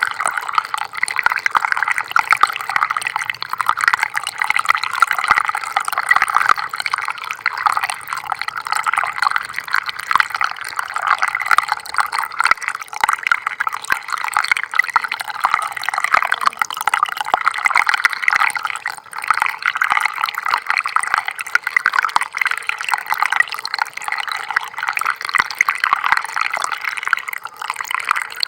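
Small stream of water flowing and splashing steadily, a dense patter of fine splashes and trickling without pause.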